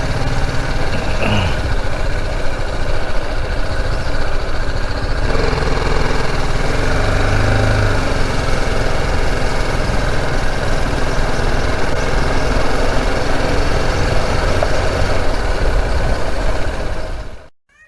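Motorcycle engine running steadily while riding, with road and wind noise. It cuts off abruptly near the end.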